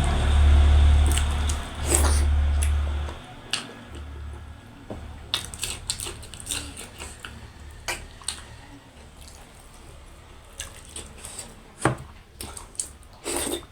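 Eating sounds from a meal of dhido and chicken: scattered small clicks and taps against a plate with wet, squishy mouth sounds. A low steady rumble runs under the first three seconds and then stops.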